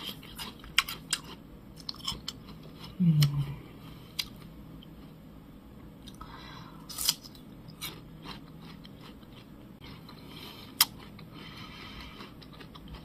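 Slices of crisp, juicy Naju pear being bitten and chewed close to the microphone, with scattered crunches and wet clicks. A short hummed 'mm' comes about three seconds in.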